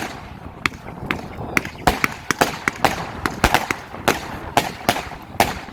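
A 100-shot, 20 mm fan-cake firework battery firing in quick succession, about three to four sharp reports a second, with crackle between the shots.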